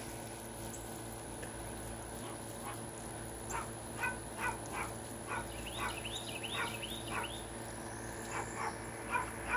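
Dog barking her head off: a long run of short barks, a few a second, starting about two seconds in.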